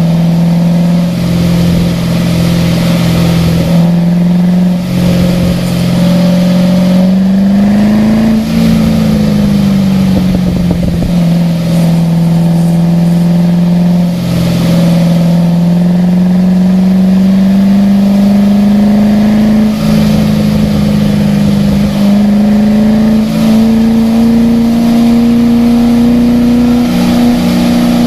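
Car engine running steadily on a track lap, its note dipping and recovering about eight seconds in, then climbing slowly through the rest. An even hiss of spray from a very wet track runs underneath.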